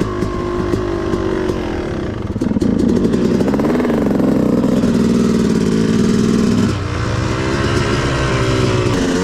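Dirt bike engine running while riding, its pitch rising and falling with the throttle: it climbs a few seconds in, holds steady, then drops off about two-thirds through.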